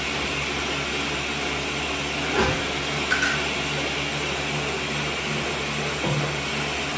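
Steady mechanical whir with a low hum, like a running household appliance or fan motor, with a few faint knocks about two and a half, three and six seconds in.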